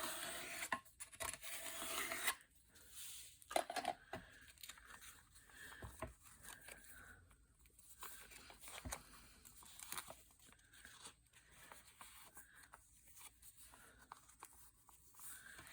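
Book-page paper being handled on a work surface: faint rustling and sliding with scattered light taps, louder for the first couple of seconds.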